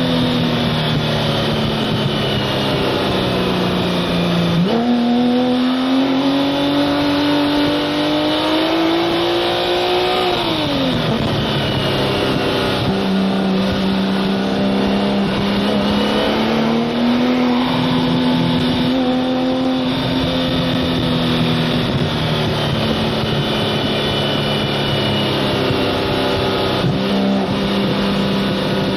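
Porsche 997 Turbo S twin-turbo flat-six driving at speed. Its note sinks for a few seconds, jumps up sharply about five seconds in and climbs steadily under acceleration, then drops away at about eleven seconds. It then runs at a steadier pitch with small rises and falls, over road and wind noise.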